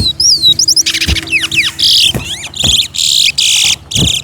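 Towa-towa finches singing in a song race: a few sweet falling whistled notes, then loud, fast, buzzy warbled phrases about a second long, repeated. A few dull knocks come in between.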